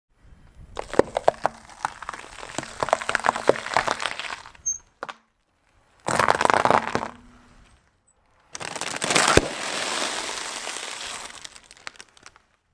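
Crunching and cracking of brittle objects being crushed under a car's tyres, heard in three separate bursts with short silences between them. The first burst is a run of many sharp snaps, and a single sharp bang comes about nine seconds in.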